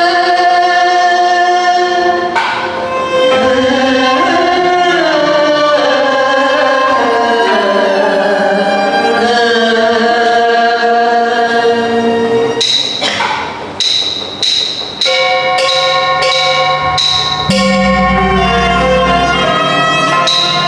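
Teochew opera ensemble music. A gliding string melody plays first; about two-thirds of the way in, a run of sharp percussion strikes comes in, about two a second; near the end a low, steady tone takes over.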